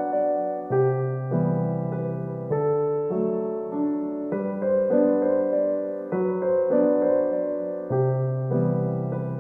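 Background piano music: a slow, gentle piano piece with sustained chords changing about once a second.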